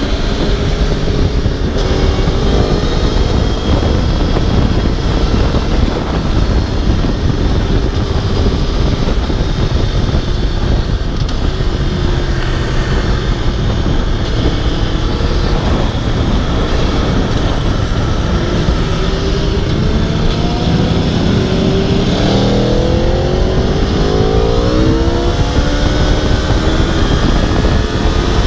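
Aprilia RSV4 V4 sportbike engine under way at speed, buried in heavy wind rush on the microphone. Past the middle it accelerates hard, the engine pitch climbing in a run of rising sweeps through the gears.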